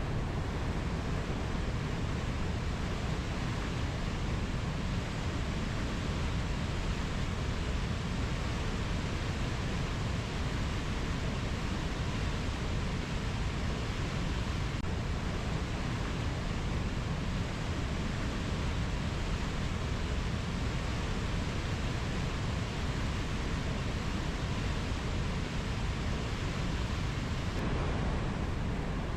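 A steady, even rushing noise, heaviest in the low end, with no calls or separate events in it.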